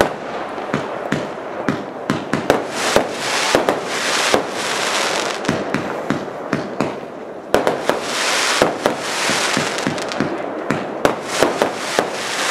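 Firework batteries firing: an irregular string of sharp launch and burst bangs, with stretches of dense hissing crackle between them.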